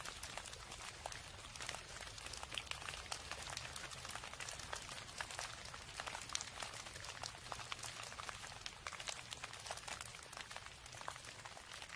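Steady rain, an even hiss dotted with many close, sharp drop hits.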